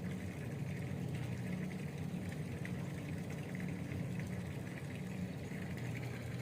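A steady low motor hum, like an engine idling, with no change in pitch.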